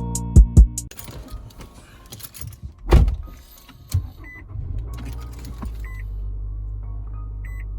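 Intro music ends in the first second, then car sounds take over: a loud thump about three seconds in and a sharper knock a second later. After that a car engine runs steadily, with a short high warning chime repeating about every second and a half.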